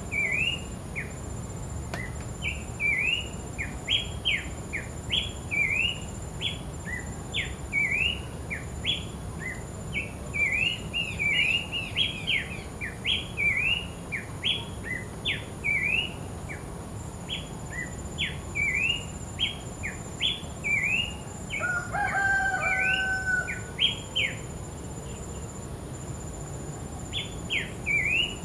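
Horsfield's babbler (pelanduk semak) singing busily: a long run of short, sharp whistled notes, each a quick downward slur, one to three a second with a short break near the end. For a second or so past the middle, a different steady, lower-pitched call joins in, and a thin high whine runs under it all.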